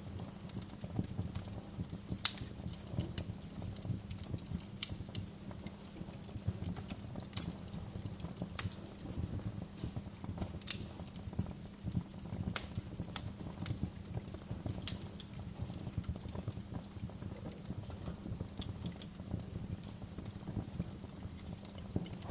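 Wood fire crackling in a fireplace: a steady dense crackle with scattered sharper pops, the loudest about two seconds in.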